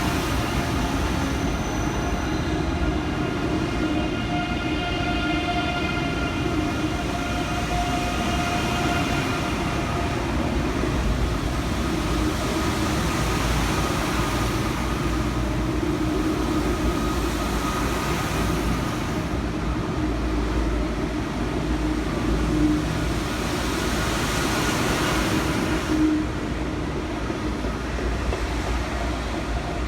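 A train running on the rails: a steady rumble with a high whining tone that fades out over the first several seconds.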